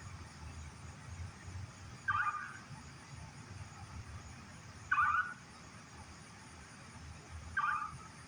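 A loud bird calling, one short call repeated three times at roughly three-second intervals. The bird is unidentified.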